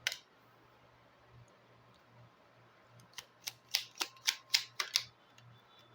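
Fortune-telling (Lenormand) cards being handled: a single click, then about halfway through a quick run of sharp card clicks and snaps, roughly four or five a second.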